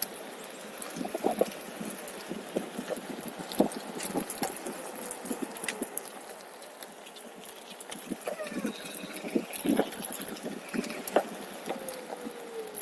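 OneWheel electric skateboard rolling over a rough trail: irregular knocks and rattles from the board and its tyre, with a faint motor whine that falls in pitch twice as it slows.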